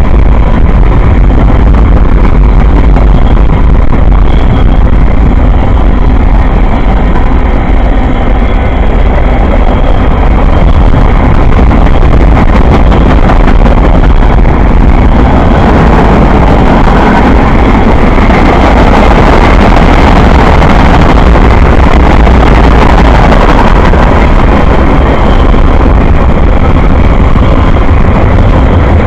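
Loud, steady rumble of a train rolling past at close range, with no breaks, and faint thin high tones drifting in and out above it.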